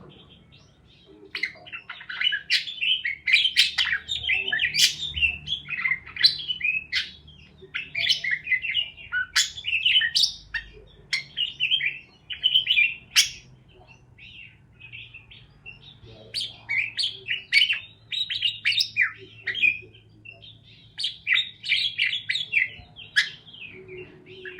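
Parakeets chirping in rapid, uneven runs of short calls, with a lull of a couple of seconds about halfway through.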